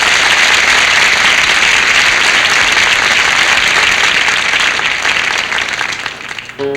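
Studio audience applauding, a steady wash of clapping that eases off slightly near the end, just before an acoustic guitar comes in.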